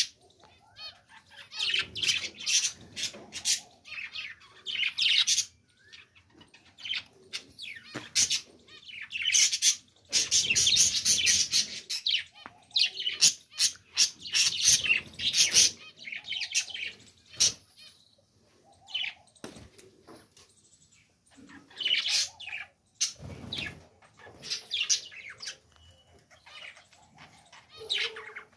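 Pet budgerigars chattering in dense, irregular runs of rapid high chirps with short pauses between bouts.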